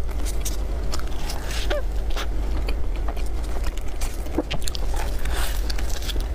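Close-miked biting and chewing of cream puffs: irregular soft crackles and wet mouth clicks over a steady low hum.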